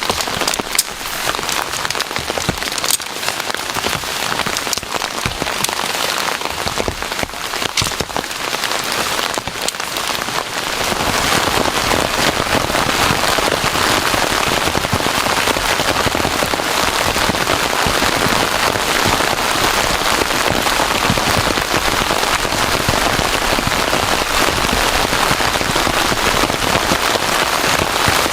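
Heavy rain falling. For the first ten seconds or so, separate sharp drop strikes stand out; about eleven seconds in, the rain thickens into a louder, dense, steady downpour.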